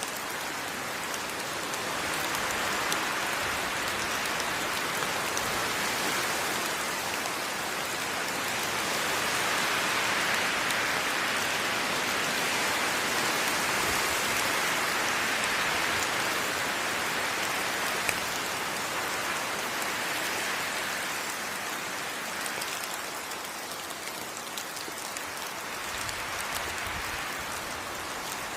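Steady tropical rainforest rain, many drops pattering on leaves and ground in a continuous hiss that swells a little partway through and eases slightly near the end.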